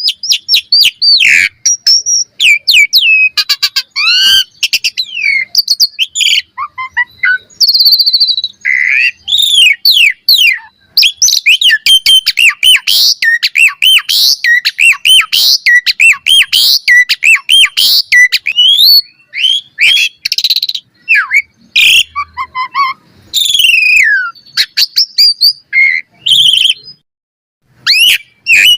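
Javan pied starling (jalak suren) in full song: a fast, varied stream of whistles, rising and falling slurs, chatter and clicks, with a few brief pauses.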